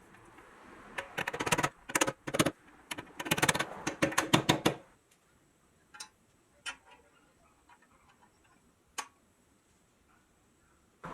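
A quick run of clicks and rattles, dense for about four seconds, then three single sharp clicks spaced a second or more apart.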